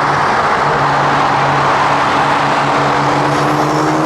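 BMW M4 GTS's twin-turbo straight-six running steadily at cruise with road and tyre noise, its engine note rising slightly near the end as it picks up revs.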